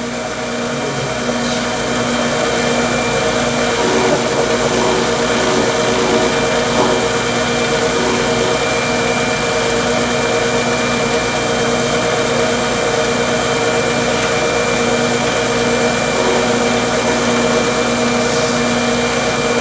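Wood lathe motor running steadily, with a constant hum and hiss, as the spinning workpiece is polished with a cloth and Yorkshire Grit abrasive paste. The sound grows louder over the first few seconds, then holds.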